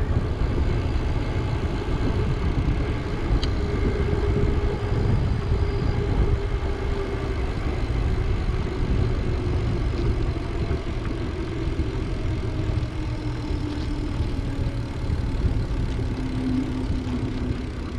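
Wind rushing over the microphone of a camera riding along on a moving bicycle: a steady low rumble, with a faint hum that sinks slowly in pitch.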